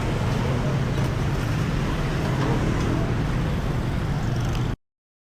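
Steady city street traffic with a low engine hum. The sound cuts out completely near the end.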